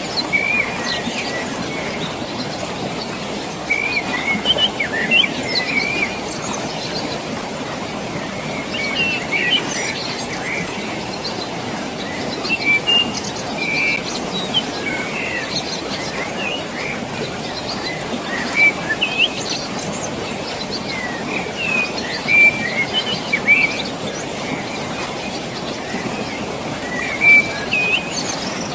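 Steady rush of flowing water, with small birds chirping in short bursts of twittering every few seconds over it.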